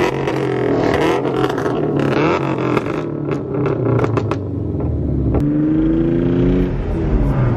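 Car engine accelerating hard, its pitch rising in pulls with a gear change near the end, with a run of sharp cracks in the first few seconds.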